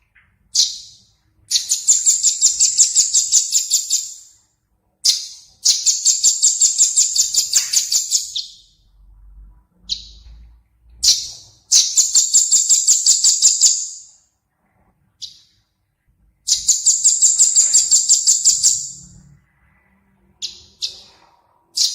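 A small songbird giving four rapid, high-pitched trills, each about two to three seconds long at roughly six notes a second, with short single call notes between them.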